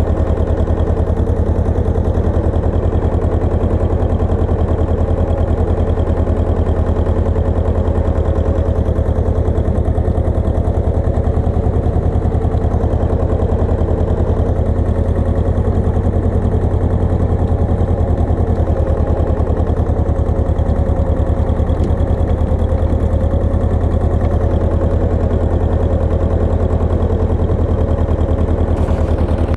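Pasquali 980 EX tractor's engine running steadily at an even speed, a loud low rumble made of rapid, regular firing pulses.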